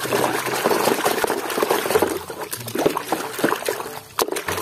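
Water running and splashing over a muddy plastic toy as it is washed, with small clicks and knocks of the toy being handled.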